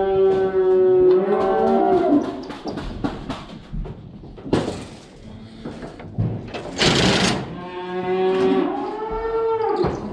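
Feeder cattle bawling, several calls overlapping in the first two seconds and more near the end. Two short harsh noises come in between.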